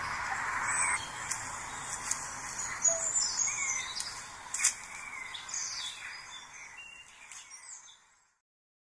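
Birdsong: several birds chirping and calling in short gliding phrases over a steady background hiss, fading out near the end.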